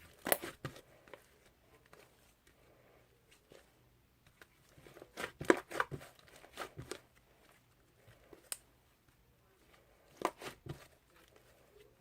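Soft, fluffy clay slime being squished and pulled apart by hand, giving clusters of crackly pops and tearing sounds: at the start, again about five to seven seconds in, and once more near ten seconds.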